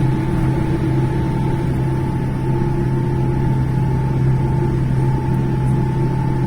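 Steady cabin noise inside a Boeing 787-10 with its engines running: a constant low hum with a steady mid-pitched whine on top.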